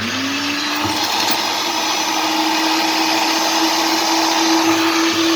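Philips 1600 W electric meat grinder switched on and running with no load, spinning up to speed in the first second and then holding a steady whine over the motor's hiss. Running normally, with the auger turning.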